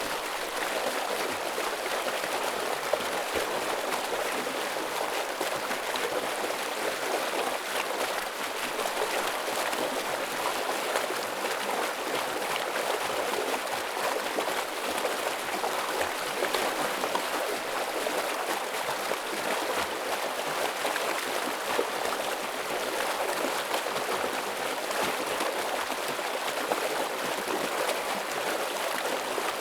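Heavy flowing stream: water rushing and gurgling over rocks in a steady, dense wash.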